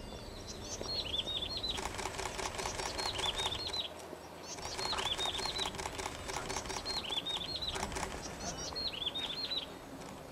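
A songbird repeating a short phrase of three or four quick, arched, high notes every one and a half to two seconds, over a fast dry rattling trill that pauses briefly about four seconds in.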